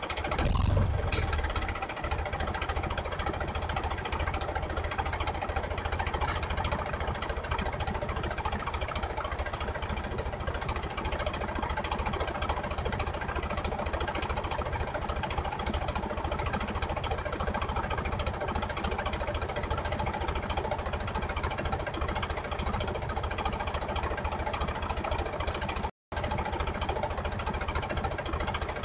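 An engine running steadily at idle with a knocking rumble. The sound cuts out completely for a split second near the end.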